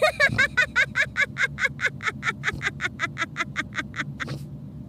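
A cartoon character's voice laughing in a long, even run of quick 'ha' bursts, about five a second, stopping shortly before the end.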